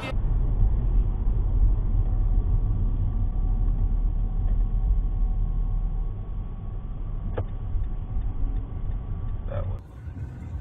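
Low, steady road and engine rumble of a car, as picked up by a dashcam, with a faint steady hum above it and a single sharp click about seven seconds in. Near the end the sound cuts to a quieter, different background.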